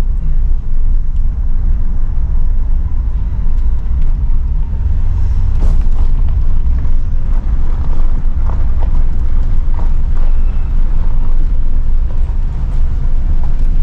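A car driving slowly over a rough, rugged road: a loud, steady low rumble with scattered knocks and rattles.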